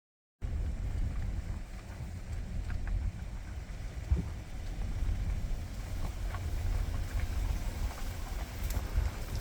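Wind buffeting the microphone: a low, irregular rumble that starts abruptly about half a second in, with a few faint ticks over it.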